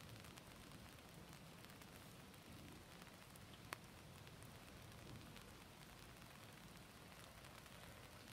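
Faint, steady patter of water, an even hiss with scattered small drip-like ticks and one sharp click a little under four seconds in.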